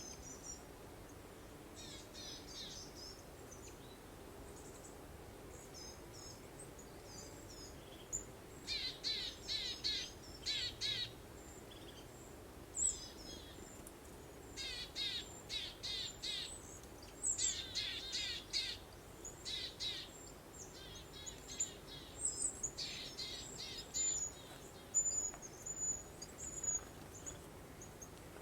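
Songbirds chirping in quick runs of rapid, high notes, starting about a third of the way in and coming in repeated bursts. Under them runs a faint, steady hiss of breeze.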